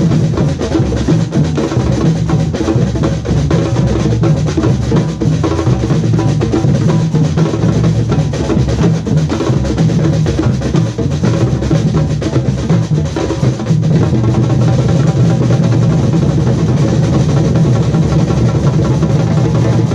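Samba drum group playing a steady, loud groove: deep bass drums under rattling snare drums.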